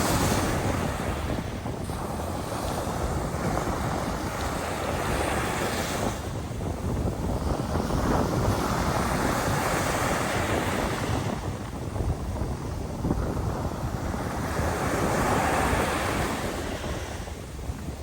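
Sea waves washing onto the shore, swelling and fading every few seconds, with wind rumbling on the microphone.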